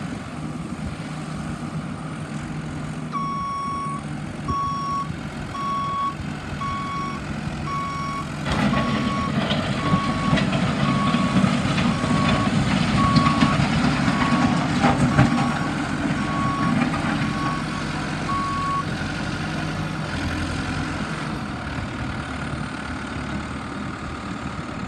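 New Holland LB110 backhoe loader running, its reverse alarm beeping at about one beep a second while the machine backs up. The engine rises under load a third of the way in, then settles back to a steadier run after the beeping stops.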